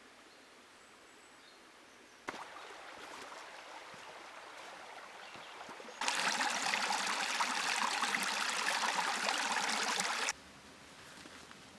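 Flowing river water: a soft rush cuts in about two seconds in, then a much louder rush of water takes over and stops abruptly near the end.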